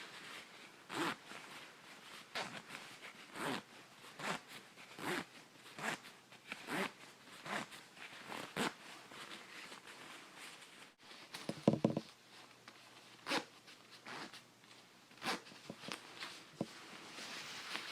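Zipper on a 66°North coat being zipped up and down in repeated quick strokes, roughly one a second. A brief, louder rattle of clicks comes about twelve seconds in.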